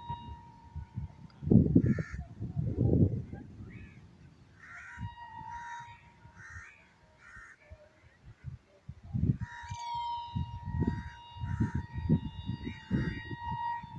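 Crows cawing repeatedly, with loud bursts of low rumble breaking in, heaviest a couple of seconds in and again in the second half.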